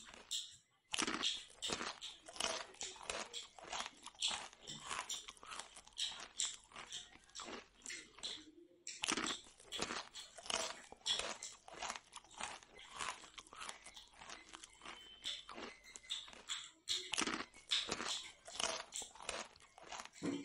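Close-up chewing and crunching of fried puri and jalebi, in quick irregular mouth strokes, pausing briefly twice: about half a second in and again near the middle.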